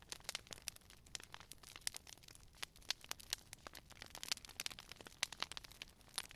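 Wood fire crackling: a steady run of irregular sharp pops and snaps over a faint hiss.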